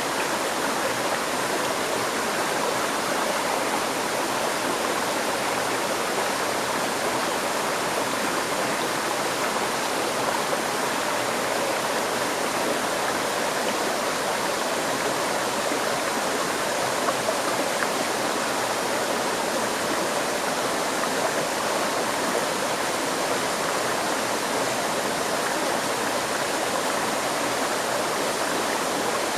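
River stream flowing steadily over rocks, a continuous rushing and gurgling of water.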